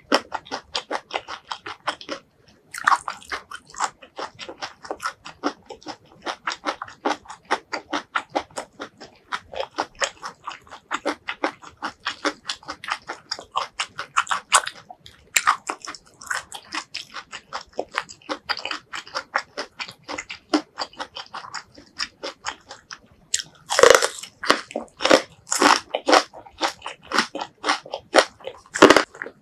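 Close-miked chewing of garlic-and-chili stir-fried vegetables, with rapid crisp, wet crunching. Louder crunchy bites come near the end as she bites into a piece of stir-fried long green onion.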